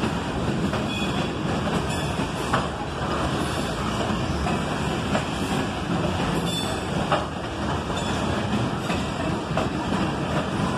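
Covered hopper cars of a freight train rolling past at track side: a steady rumble of steel wheels on rail, with occasional sharp clicks.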